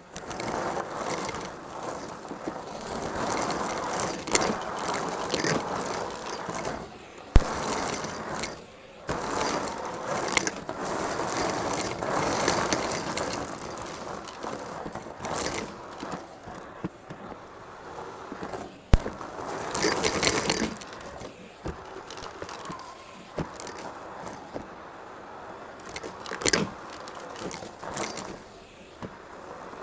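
Vacuum cleaner's flat brush tool pushed and pulled over a hard floor: an uneven scraping and rushing that swells and fades with each stroke, with two sharp knocks, about seven seconds in and near the middle.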